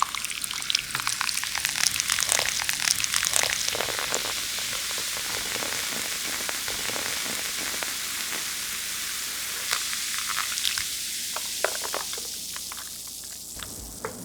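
Chicken pieces deep-frying in hot oil. The sizzle crackles and pops densely for the first few seconds, then settles to a steady hiss with occasional pops.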